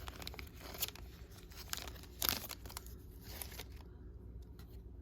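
Trading cards and a foil pack wrapper being handled: light crinkling and rustling in short bursts, the loudest about two seconds in, growing quieter after about four seconds.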